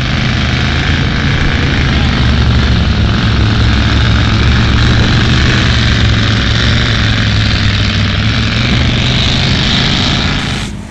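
Modified 4x4 mud truck engine running hard at steady high revs, a loud unbroken drone with a strong low hum. It starts and cuts off abruptly.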